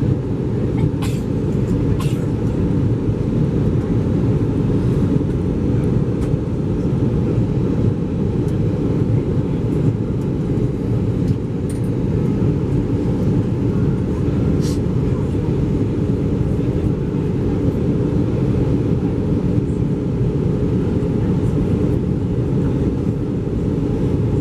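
Steady rumble inside the cabin of an Airbus A320 airliner, from engine and airflow noise, with a few faint clicks.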